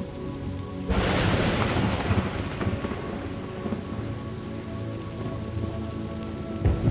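Thunderstorm: steady rain with a sharp thunderclap about a second in that rolls away over the next couple of seconds, and another rumble of thunder breaking near the end.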